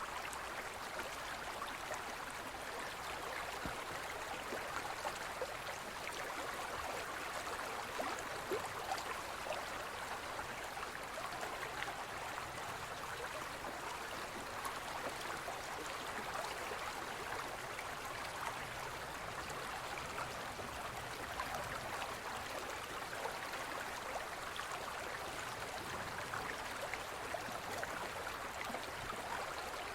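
Shallow forest stream flowing steadily, with a constant babbling of water and small splashes and trickles.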